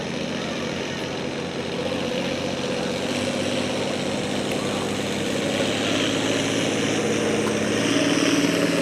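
International tractor engine working hard under load while pulling the sled down the track, a steady drone growing louder over the last few seconds.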